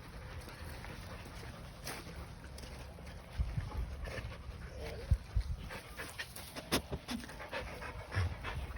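A dog panting close by, with irregular thumps and sharp knocks of handling near the microphone starting about three seconds in.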